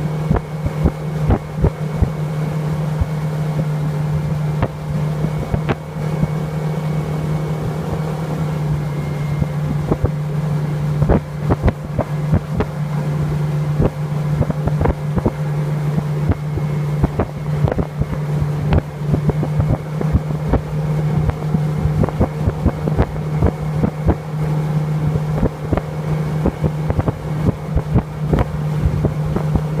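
Motorboat engine running steadily under way, with frequent irregular thumps.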